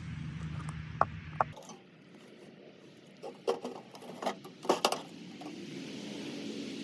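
Light metallic clinks and knocks of tin and metal parts being handled: two sharp ones about a second in, then a cluster a few seconds later. A low rumble cuts off about a second and a half in, and a steady hiss builds near the end.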